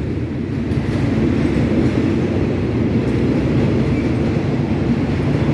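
Passenger coaches of a rapid train rolling past at speed through a level crossing: a loud, steady rumble of wheels on rail.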